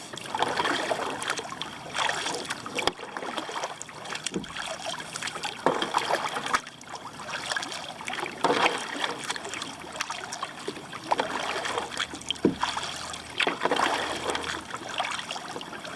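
Kayak paddle strokes, the blades dipping and splashing into the water in turn with a swish about every one to two seconds. A few sharp clicks come between the strokes.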